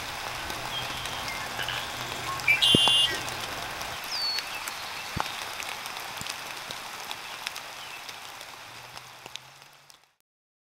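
Light rain pattering steadily, with a few short bird calls about two and a half seconds in and a falling chirp near four seconds; the sound fades out near the end.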